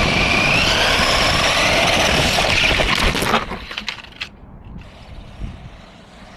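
Radio-controlled speed boat running flat out, its electric motor whining under a loud rush of water for about three and a half seconds, then dropping back.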